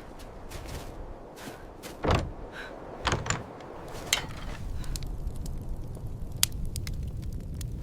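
A series of separate knocks and thuds, the loudest about two seconds in, over a steady low rumble.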